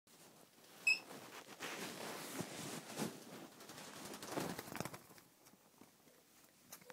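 A cockatiel gives one short, high chirp about a second in, followed by a few seconds of soft rustling and scuffling.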